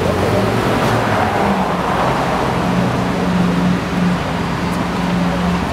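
Lamborghini supercar engine running at low, fairly steady revs, the pitch stepping up a little one to three seconds in.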